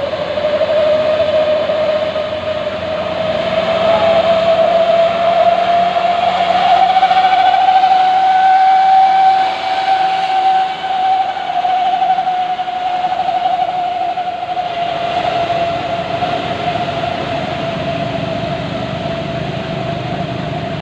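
Loaded Hino 500 dump truck labouring up a steep climb, its engine running hard under a loud, steady whine that rises slowly in pitch and then eases back down.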